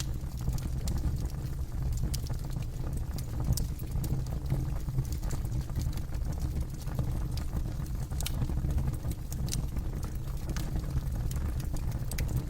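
Campfire burning: scattered sharp crackles and pops of the burning wood over a steady low rumble.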